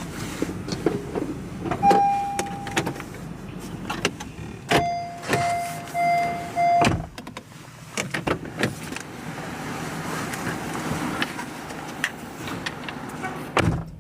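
Electronic beeps: a single beep, then four in a row at a lower pitch, amid clicks, knocks and handling noises.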